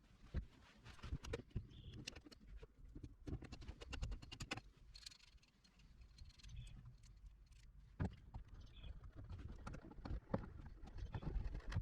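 Scattered faint metallic clicks and knocks from a hand rivet nut tool being worked and unscrewed from a rivet nut just set in the vehicle's sheet-metal bodywork.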